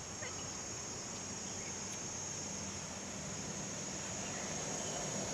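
A steady, high-pitched insect chorus over a soft, even outdoor hiss, with a faint low hum coming in during the second half.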